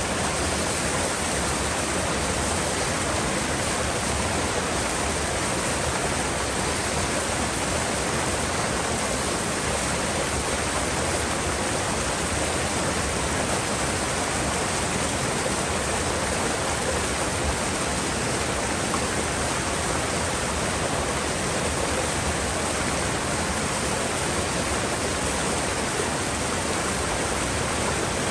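Mountain river rushing over rocks: a steady, unbroken roar of flowing water.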